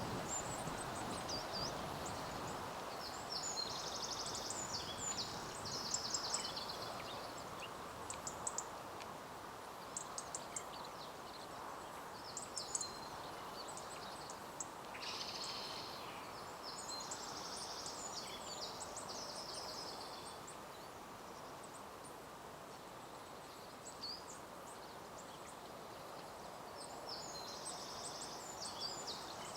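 Small birds singing in three spells of quick, high song phrases, over a steady outdoor background hiss, with a few faint scattered taps.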